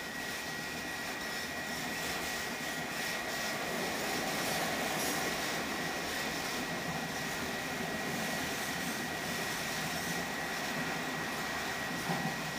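Train rolling through a grade crossing: a steady rushing rumble of wheels on rail, with a steady high-pitched tone running through it and a couple of light knocks near the end.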